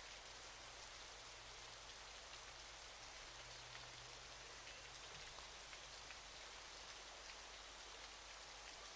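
Faint, steady rushing of a waterfall: an even hiss of falling water with small scattered splashes.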